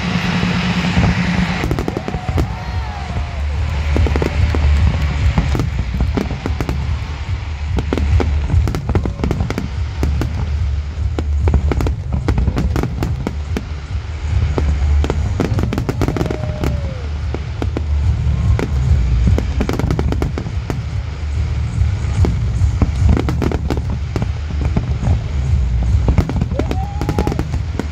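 Aerial fireworks display: many shells bursting in quick succession, with crackle, over a steady low rumble.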